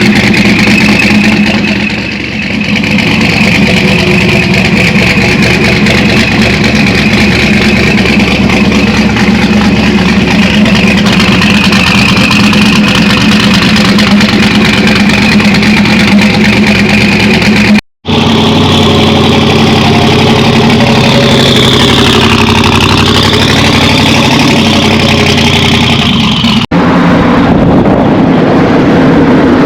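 Twin-turbocharged Dart 400 small-block V8 of a 1985 Chevrolet C10 running loud and fairly steady under way. The sound cuts out for an instant twice, partway through and near the end.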